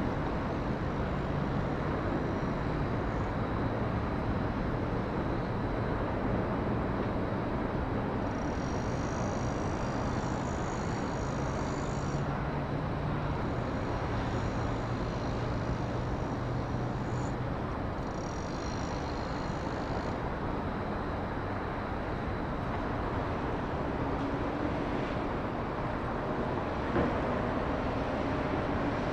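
Boeing 777-300ER's GE90 jet engines at takeoff power, a steady distant rumble, with a faint high whine coming and going partway through.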